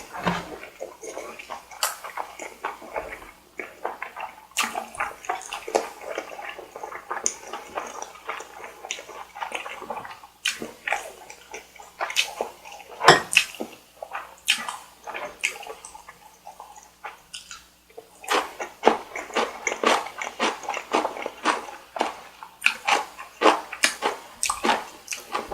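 Close-miked eating sounds: wet chewing, smacking and slurping of noodles and rice cake, as a rapid run of small clicks. The loudest smack comes about halfway through, and a quieter pause is followed by a busy run of smacks.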